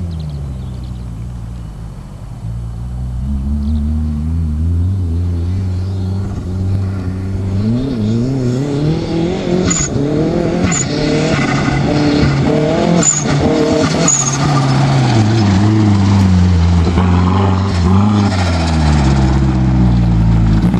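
Pro-Lite off-road race truck engine revving as it is driven on dirt: the pitch falls at first, then climbs and drops several times in quick succession while getting louder. A few short sharp ticks come in the middle.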